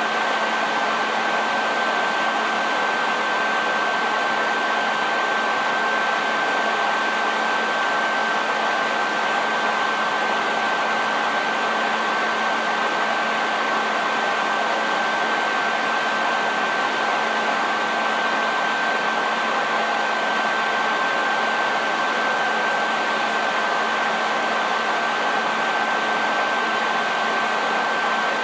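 Handheld hair dryer running steadily: an even rush of blown air with a steady high motor whine and a low hum, unchanging throughout.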